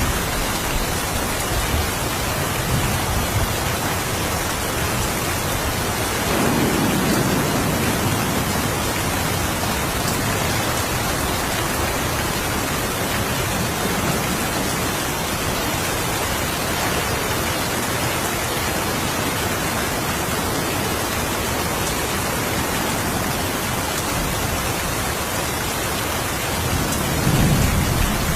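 Steady rain with low rumbles of thunder, one about six seconds in and a louder one near the end.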